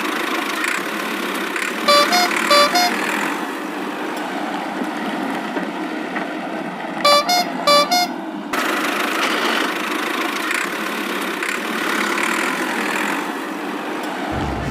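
Cartoon vehicle sound effect: a steady engine and road hum, with a two-tone horn tooting in quick high-low notes twice, about two seconds in and again about seven seconds in.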